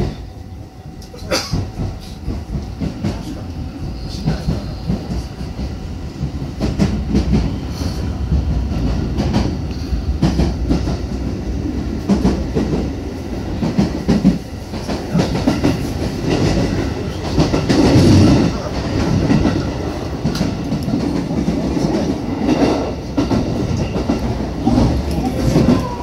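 JR West 221 series electric train pulling away and gathering speed, heard from inside the front car: a steady low running rumble with the wheels clattering over rail joints and points.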